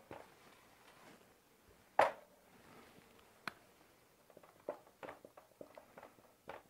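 Scattered small clicks and taps in a quiet room: a sharp knock about two seconds in, another about a second and a half later, then a run of light ticks near the end.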